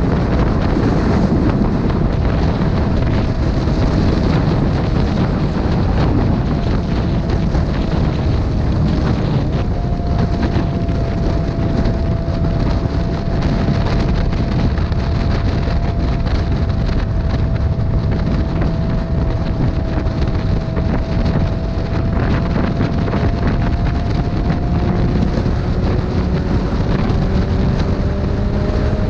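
Wind rushing over the microphone of a motorcycle riding at road speed, with the engine's note holding a steady pitch and climbing slightly near the end.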